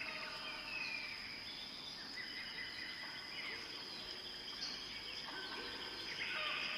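Birds chirping and calling in short, sliding notes over a steady high-pitched hum and a faint background hiss.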